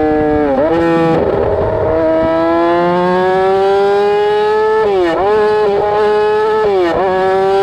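Straight-piped 2007 Yamaha R6 inline-four engine running at high revs under way, its pitch climbing slowly, with three sharp brief drops in revs.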